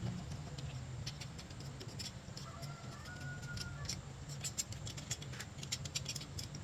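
Irregular light clicks and taps, coming thicker after the first few seconds, over a steady low hum.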